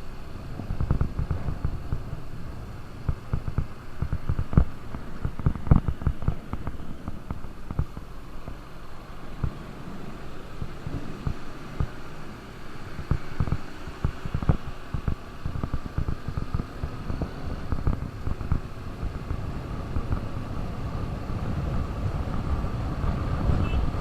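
KTM RC 200's single-cylinder engine running on the move, with irregular wind buffeting thumping on the microphone, heaviest in the first half. A faint engine tone slowly rises in pitch over the second half.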